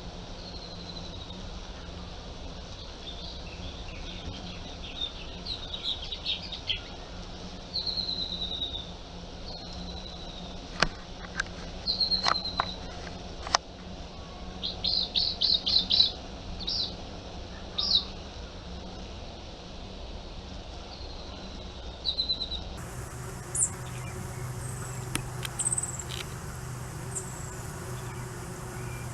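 Wild birds calling: short, high, descending chirps and quick trills, repeated on and off, over a steady low hum. A few sharp clicks sound near the middle.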